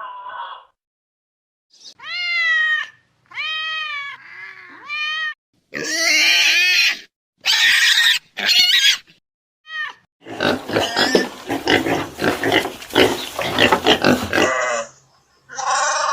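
Animal calls: a few short cries that rise and fall in pitch, then harsher, noisier squeals, and from about ten seconds in about four seconds of continuous harsh squealing.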